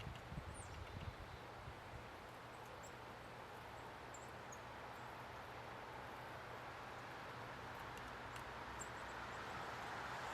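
Faint, short, high chirps of small birds at the feeders, scattered over a steady outdoor rush. A few soft knocks come in the first second or so, and the rushing grows louder toward the end.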